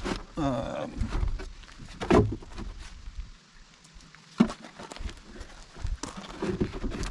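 Handling noise as a portable power station is shifted and turned: scattered knocks, clicks and rubbing, with one sharp knock about four and a half seconds in.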